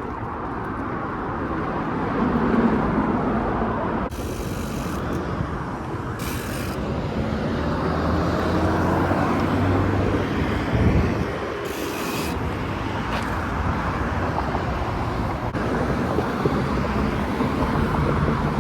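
Street traffic noise with wind rushing over a chest-mounted camera microphone while riding a bike along a road. Passing cars make a steady low hum, and there are three brief hissing bursts.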